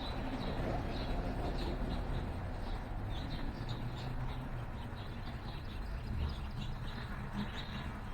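Small songbirds chirping, many quick high chirps repeating, over a steady low rumble of distant city traffic.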